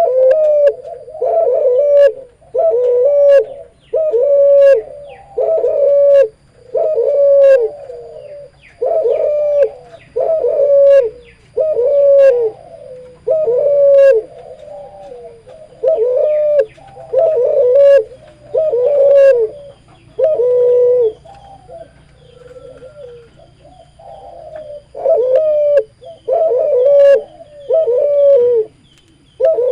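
Cuhu, a hybrid of a spotted dove and a Barbary dove, cooing in a long run of short, low coos, about one a second, with a brief pause about two-thirds through.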